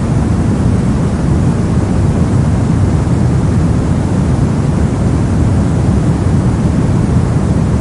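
Steady, soft masking noise used for sleep and study, deep and rumbly with most of its weight in the low end and little hiss on top. It holds even throughout, with no changes or events.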